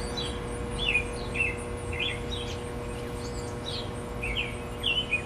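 A small bird chirping repeatedly, about a dozen short falling chirps at irregular spacing, over a faint steady hum.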